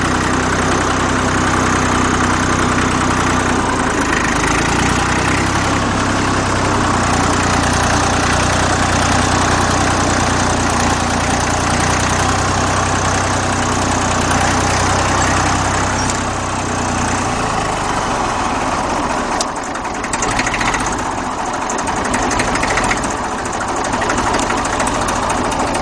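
Fordson Dexta tractor's three-cylinder diesel engine idling slowly and steadily after a cold start, with a roar from a water pump bearing that the owner says is worn and due for replacement. About two-thirds of the way through, the deep low rumble thins out.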